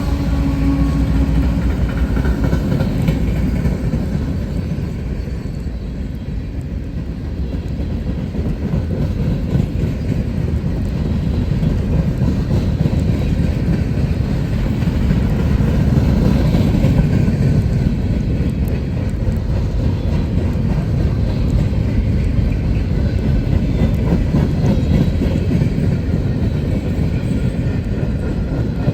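Freight train rolling past, a steady low rumble of steel wheels on rail with faint clicking. A locomotive's engine note fades out in the first second or two, leaving the cars going by.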